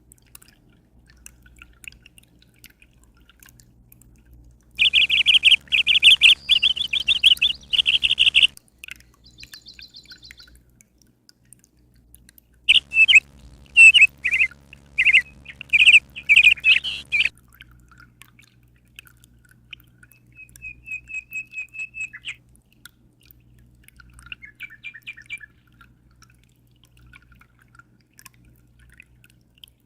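A songbird singing in two loud bouts of rapid chirping notes, followed by a quieter fast trill and a few soft notes, over a faint steady low hum.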